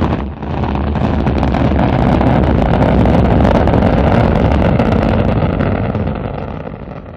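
Rocket engines at launch: a loud, steady, deep rumble with a brief dip just after the start, fading near the end.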